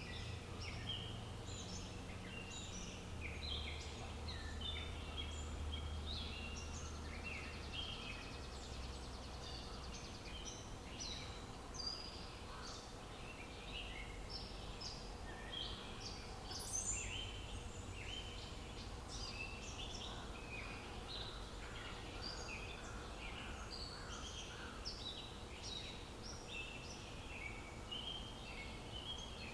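Dense chorus of songbirds, many short overlapping chirps and calls throughout, over a faint low rumble of outdoor ambience.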